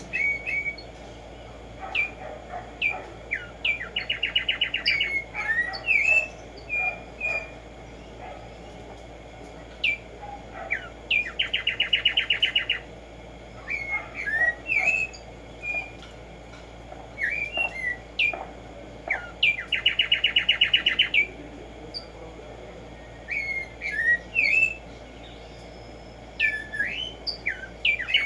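Black-striped sparrow (Tumba Yegua) singing: a few separate slurred whistled notes, then a fast, even trill of about a second and a half, repeated about every eight seconds, four times.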